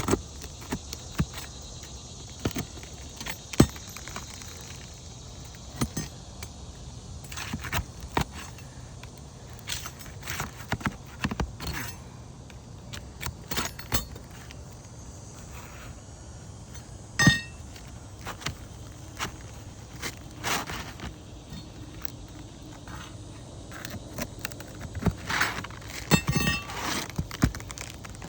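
Irregular clicks, knocks and scrapes of asphalt roof shingles being handled and worked by hand, with a couple of brief squeaks about halfway through and again near the end.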